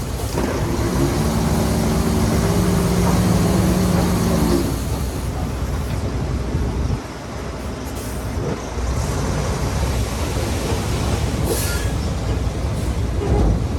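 Heavy diesel construction machinery working. A steady engine note fades about five seconds in, leaving a rough rumble and clatter, with a short high hiss a little before the end.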